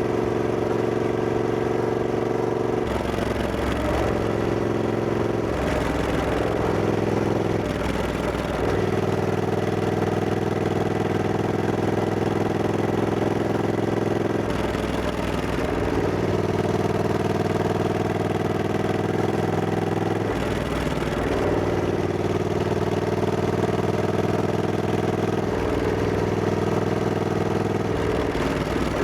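Triumph Scrambler 1200X's 1200 cc parallel-twin engine running under way, its note mostly steady, with several brief changes in engine speed, about three seconds in, around six to eight seconds, and near fifteen, twenty-one, twenty-six and twenty-eight seconds.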